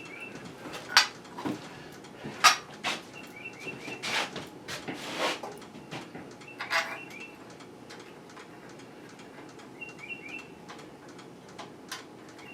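A few sharp knocks and metallic clinks, loudest about a second in and again about two and a half seconds in. Over them a bird chirps in quick runs of three or four high notes, several times.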